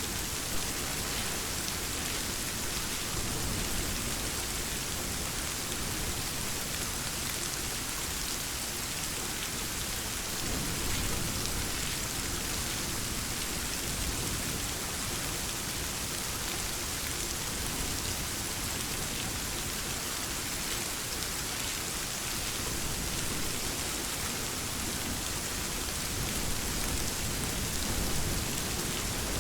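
Steady, dense rainfall, an even hiss of many drops hitting surfaces, with faint low rumbles of distant thunder rising a little near the middle and again near the end.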